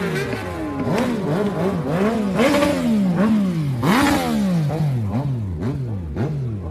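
Motorcycle engines revving, the throttle blipped up and down about twice a second, with more than one engine running at once.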